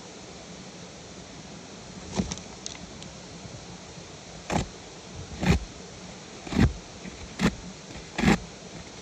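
Six sharp knocks about a second apart, starting about two seconds in, over a steady hiss of rain.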